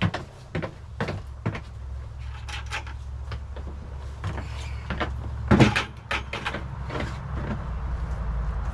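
Irregular knocks and clatter, like things being handled and set down, the loudest about five and a half seconds in, over a steady low rumble.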